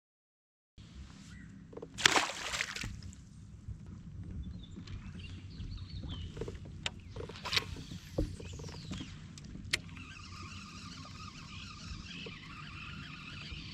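Water and handling sounds from a fishing kayak: scattered knocks and clicks over a steady low rumble, with a loud splashy rush about two seconds in. From about ten seconds a steady high hiss comes in.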